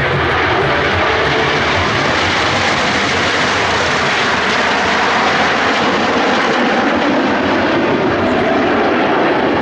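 Jet aircraft flying by: loud, steady engine noise with no clear pitch.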